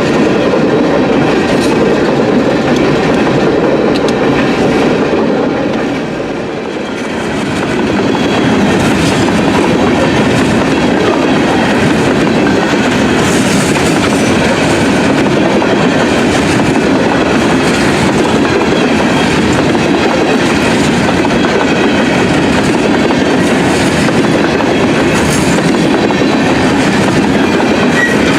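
Empty coal train rolling past, its steel wheels clicking over the rail joints, with a brief dip in loudness about six seconds in.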